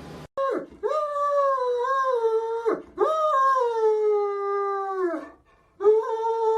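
A dog howling: three long howls, each holding a fairly steady pitch with a slight waver and dropping at its end.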